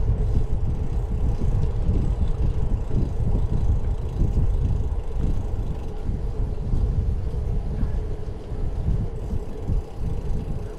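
Wind buffeting the microphone and road rumble from a moving bicycle, with a steady hum running underneath.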